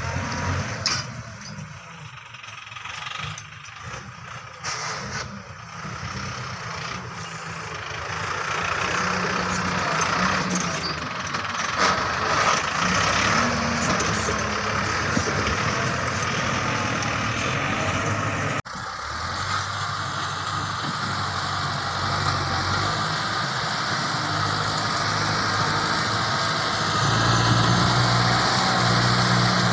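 Big tractor's engine working under load as it pushes tree roots. It is quieter with scattered knocks for the first several seconds, then runs louder and steadily. It cuts out for an instant about two-thirds of the way through, then grows louder and deeper near the end as it labours harder.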